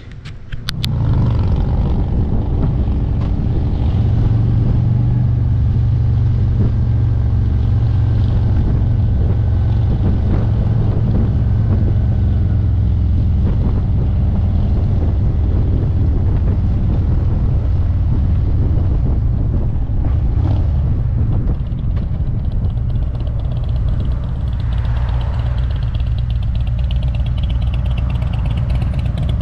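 Motorcycle engine running as the bike pulls away and rides on, a steady low engine note that comes up sharply about a second in.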